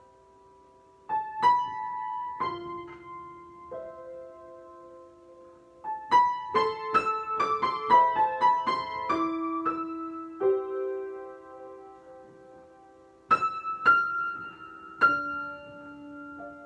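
Solo piano improvisation: slow, sustained chords, with a quick run of notes in the middle, then more held chords.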